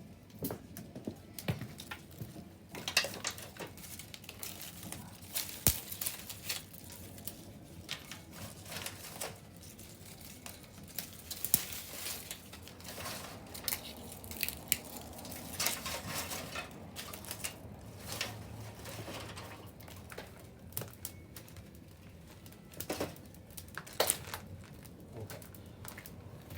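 Wood bonfire crackling, with irregular sharp pops over a low, steady rush of the flames.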